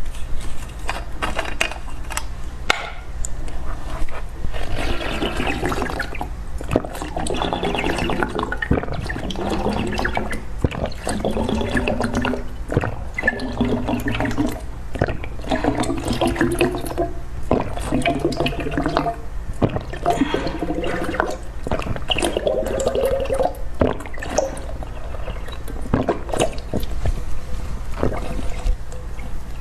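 Close-miked wet eating sounds: slurping and sipping liquid with many small sharp mouth clicks, over a steady low hum. Pitched tones come and go through the middle.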